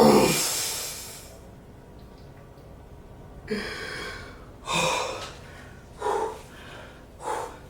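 A man breathing hard after lifting. It opens with one loud gasping exhale, then comes a heavy breath about every second and a quarter.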